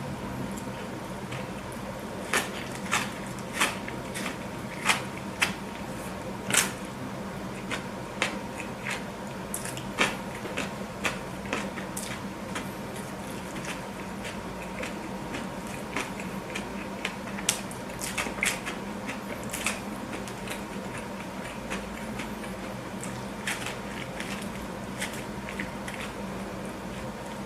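Close-miked eating of a burger: wet, squishy chewing with sharp crackling clicks of bites, coming in clusters, over a steady low background hum.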